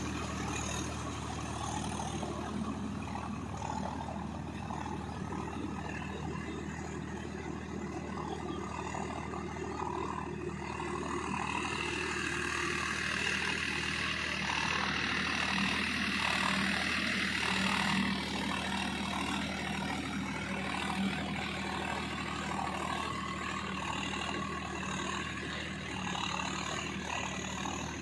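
Swaraj 744 FE tractor's diesel engine running steadily, with a louder rushing noise for several seconds in the middle.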